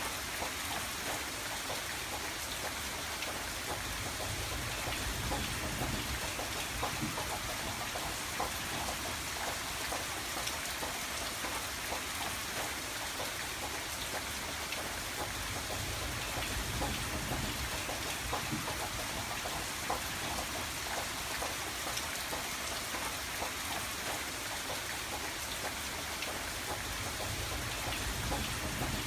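Steady rain falling on a window: a dense hiss of many small drop taps, with a soft low rumble that swells and fades every few seconds.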